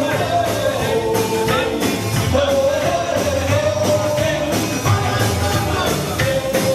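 A live band playing rock-and-roll music: a held melody line over a steady beat.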